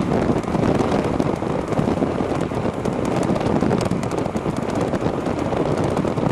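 Wind rushing over the microphone while riding an electric bicycle, a steady rush with many small clicks and crackles throughout.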